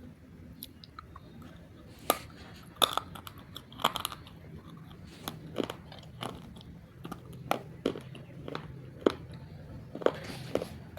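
Roasted multani mitti (Fuller's earth clay) being bitten and chewed, with sharp, dry crunches. The crunches start about two seconds in and come irregularly, roughly one or two a second.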